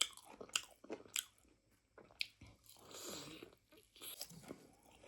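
A person chewing tough buffalo meat close to the microphone: a series of sharp, wet mouth clicks and smacks at an uneven pace, with a longer soft chewing sound about three seconds in.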